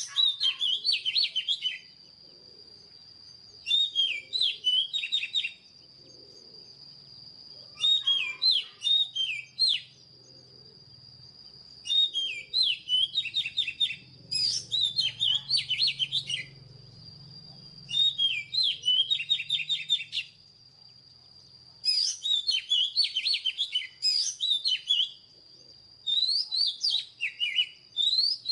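Oriental magpie-robin singing: a run of about eight short phrases of quick, varied whistled notes, each about two seconds long, with brief pauses between them. A thin steady high tone runs underneath.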